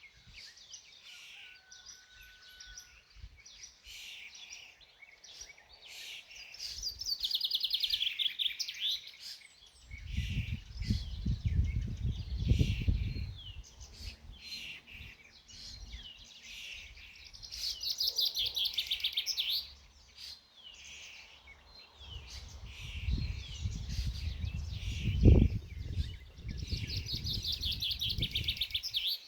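Several songbirds singing and calling, one repeating a fast trilled phrase about every ten seconds. Two stretches of low rumbling, a few seconds each, come in partway through and again near the end.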